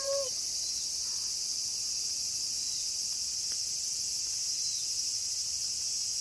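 Steady, high, even chorus of night insects. At the very start the tail of a wolf's howl slides down in pitch and stops.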